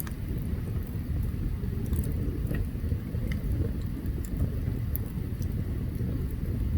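Open campfire burning, with scattered sharp crackles and pops over a steady low rumble.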